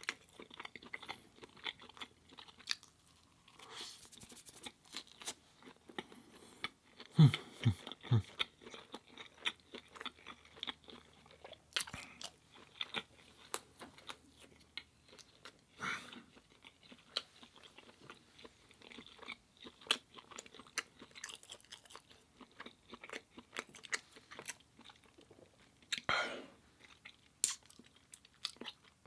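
A person chewing food close to the microphone in mukbang style, with irregular wet chewing and crunching clicks, a little louder around seven seconds in and again near the end.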